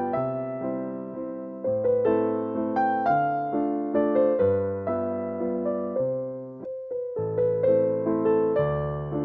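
Background piano music, a gentle waltz: single notes and chords struck and left to die away, with a brief break about seven seconds in before the tune resumes.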